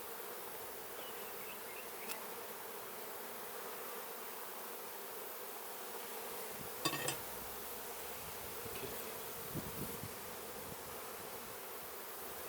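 Honeybee colony buzzing in a steady hum around an open hive during a frame inspection. A single brief knock about seven seconds in.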